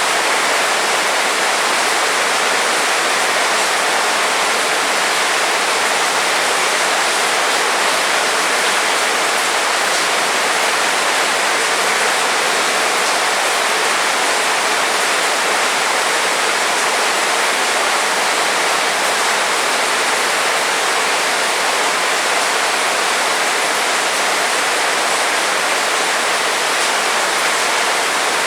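Heavy rain falling steadily: an even, unbroken rushing hiss with no thunder claps or single drops standing out.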